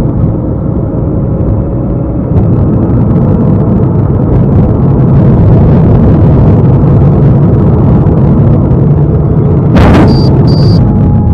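Loud, steady rumble of a car driving, recorded by a dashcam. Near the end comes a single sharp bang, followed by two short high beeps and a steady tone.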